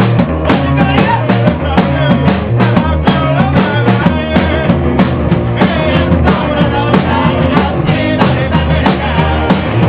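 Rock band playing a fast song, with a drum kit keeping a driving beat under bass and guitar.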